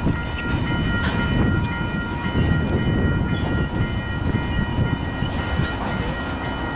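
CN freight train backing slowly into a yard: a steady low rumble of the locomotive and rolling rail cars, with a couple of short knocks.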